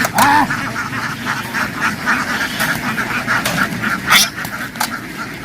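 A large flock of domestic ducks quacking continuously, many calls overlapping into a loud, busy chatter, with one louder burst about four seconds in.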